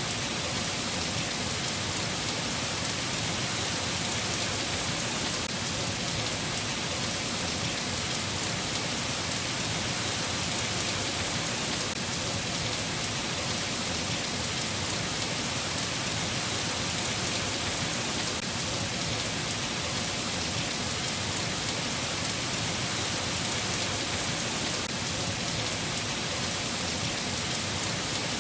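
Steady rain falling: an even, unbroken hiss of drops with no thunder.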